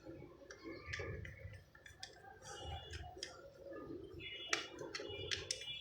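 Faint scattered clicks and small taps from hands and tools working on the terminals of a 15-amp socket as a wire is fitted.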